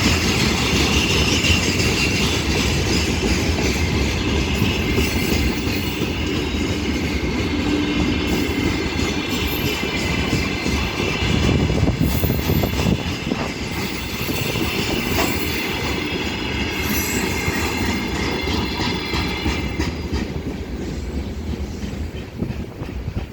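Wagons of a heavily loaded mixed freight train rolling past, the wheels clattering over rail joints with some squealing. The noise stays steady, then eases off slightly near the end.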